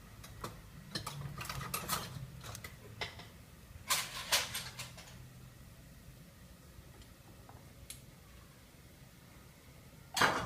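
Kitchen utensils knocking and clinking against dishes: a scattered run of short knocks in the first five seconds and one louder knock near the end, over a low steady hum.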